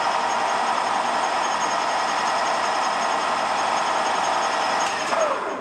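Mazak 14x40 engine lathe spindle running at 1250 RPM with a steady whine of gears and bearings. Near the end the brake is applied and the pitch falls as the spindle slows to a stop.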